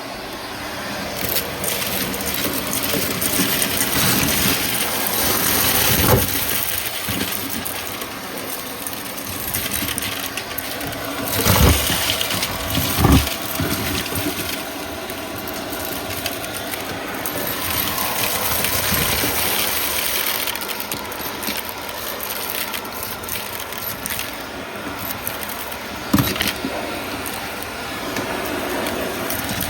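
Vacuum cleaner running steadily, with a few louder knocks and rattles over the motor noise.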